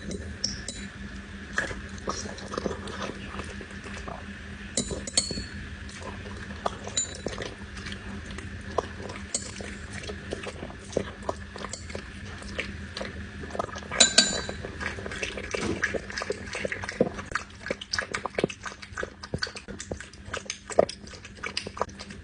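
Dog eating from a dish: chewing with irregular clicks and clinks against the dish, and a louder cluster of clinks about 14 seconds in.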